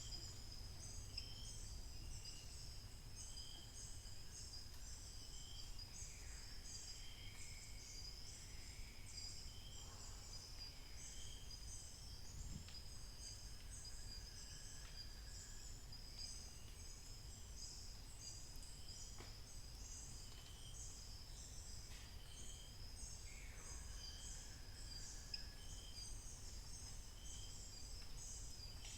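Faint dawn forest chorus: a continuous high pulsing chorus, with a bird repeating a short note about once a second and now and then a downward-sliding call, over a low rumble.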